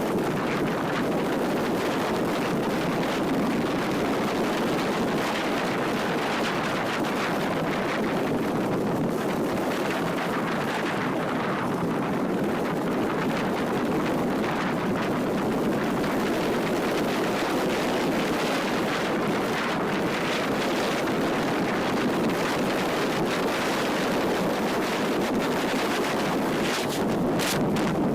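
Steady wind rushing over the microphone on a moving motorcycle, blended with road and riding noise; no engine note stands out.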